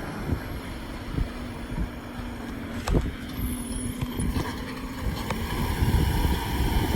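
Garbage truck engine running, growing slowly louder as it comes closer, with wind on the microphone and a sharp knock about three seconds in.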